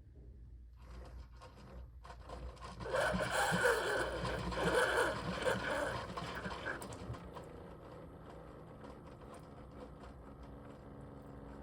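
Keurig K-Café single-serve coffee maker brewing a pod: a steady low hum under hot water hissing and sputtering through, loudest from about three to seven seconds in, then settling to a quieter steady run.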